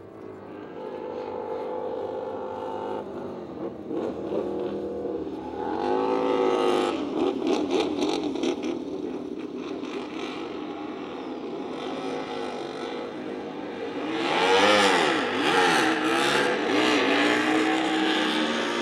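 Honda RC213V racing motorcycle's 1,000 cc V4 four-stroke engine running on track, its note rising and falling as it revs, loudest about six seconds in and again about fourteen seconds in.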